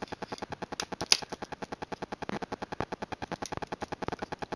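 A fast, very even ticking, about a dozen ticks a second, with one sharper click about a second in.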